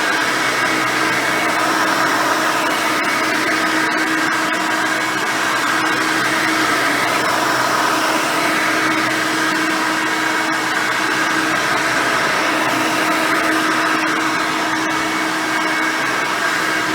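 Hoover Elite 600 upright vacuum cleaner, fitted with a 6-amp motor and a single-row brush roll, running steadily while vacuuming. The motor's steady whine shifts slightly in pitch a couple of times.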